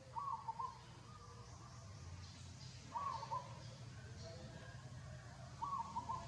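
A bird calling a short phrase of a few quick notes, repeated three times at about three-second intervals.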